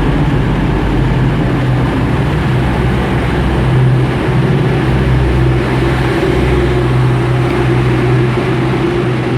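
Diesel train engine running steadily with a low, even hum.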